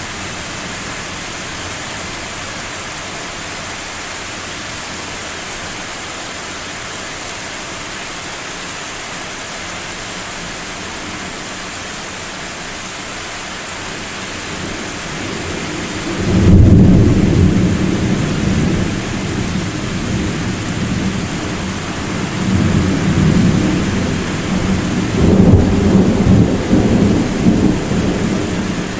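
Thunder in a rainstorm: steady rain hiss, then about halfway through a sudden loud, deep thunderclap that rolls on as a long low rumble, swelling twice more near the end.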